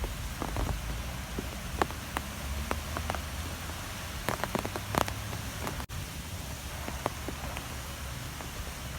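Storm wind blowing steadily with a low rumble, and scattered sharp ticks and patters against a surface. The sound drops out briefly about six seconds in.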